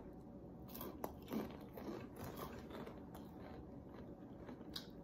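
Crunchy Xtra Hot Cheetos being bitten and chewed: faint, irregular crunches.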